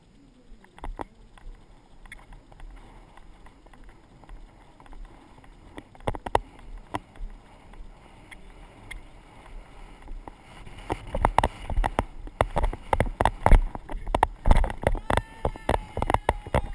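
Hoofbeats of a ridden horse with the jolting of tack and wind rumbling on a rider-mounted GoPro microphone; the hoofbeats become louder and closer together about eleven seconds in.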